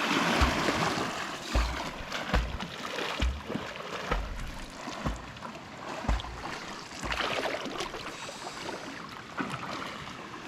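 Creek water splashing and rushing, with several short low thumps along the way.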